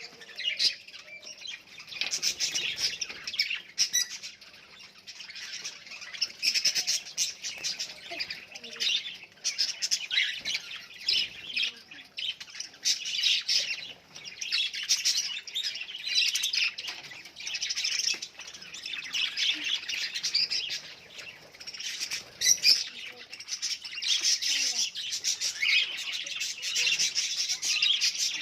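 A flock of budgerigars chattering together: a dense, continuous mix of chirps, warbles and squawks from many birds at once, swelling and easing in waves.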